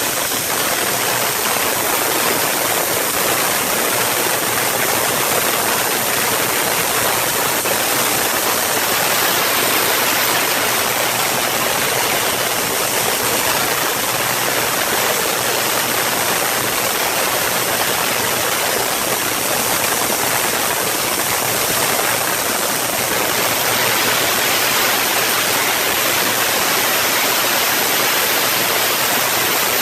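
Artificial thunderstorm soundscape: a steady hiss of rain-like noise, strongest in the treble, with no thunderclaps or rumbles.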